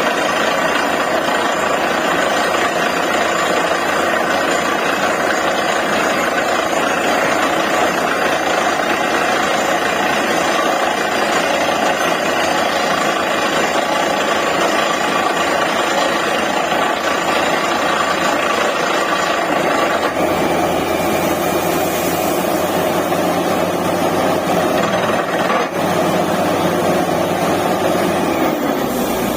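DTH borewell drilling rig running loud and steady, its engine and compressor driving the down-the-hole hammer. About twenty seconds in the sound changes, and near the end there is a falling whine.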